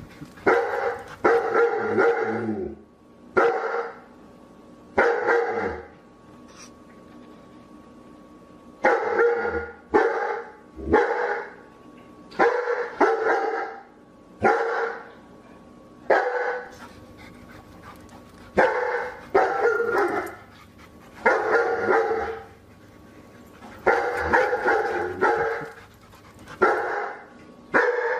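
A dog barking repeatedly, in short runs of one to three barks with pauses of a second or two between them.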